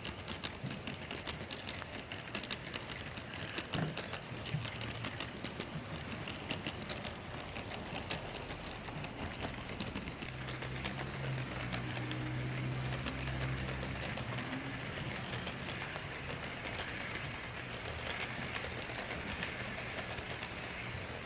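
HO scale model diesel freight train running along the layout track, with a steady stream of fine clicks from the wheels on the rails. A low hum swells for a few seconds in the middle.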